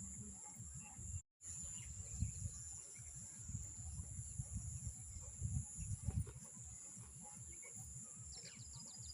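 Rural outdoor ambience: a steady high-pitched drone of insects, with a short rapid bird trill near the end, over an irregular low rumble. The sound drops out completely for a moment just after a second in.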